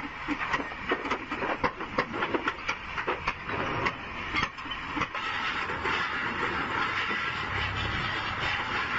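Metal parts clinking and tapping in quick, irregular strikes for about five seconds, after which a steady rushing noise takes over.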